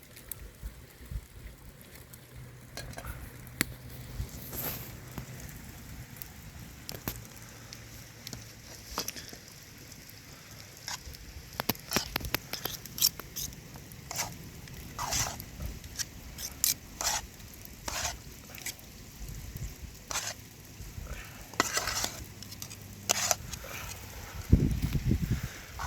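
Cooking sounds: a utensil scraping and clinking against cookware in irregular strokes, as food is stirred in a pan, with a dull low thump near the end.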